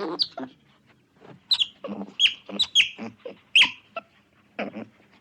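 A series of short, high-pitched calls from a small animal, each falling quickly in pitch, coming irregularly about twice a second.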